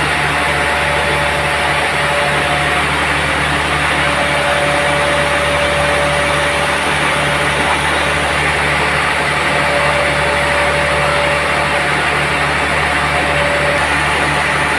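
Sawmill running steadily: a constant motor drone with a thin, steady whine above it.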